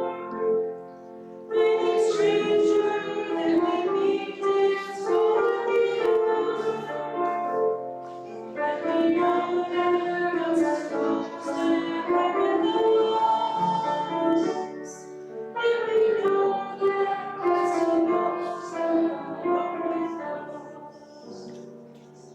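Voices singing a hymn with instrumental accompaniment, in long phrases with short breaks between them, fading out near the end.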